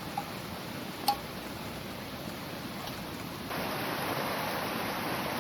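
Steady heavy rain, with one sharp drip or tap about a second in. The rain grows louder about three and a half seconds in.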